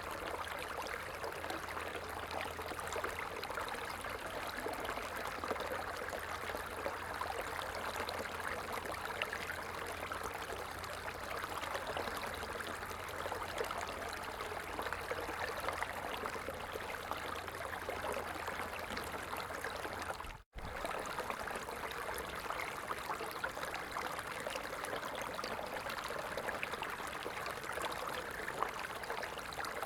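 Stream water running and trickling in a steady, continuous rush, with a brief complete dropout about twenty seconds in.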